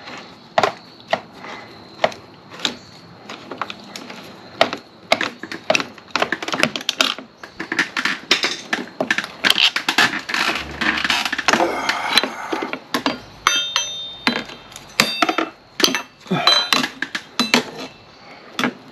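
Irregular clicks and clinks of hand tools on metal fasteners and small metal parts as screws are worked loose, with a brief metallic ring about thirteen seconds in.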